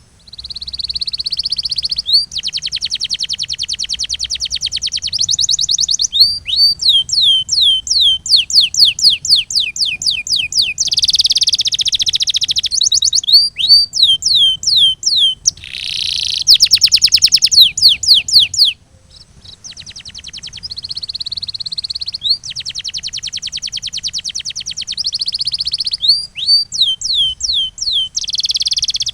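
Domestic canary singing a loud, continuous song of fast trills and runs of repeated downward-sweeping whistled notes. It breaks off briefly about two-thirds of the way in, then resumes.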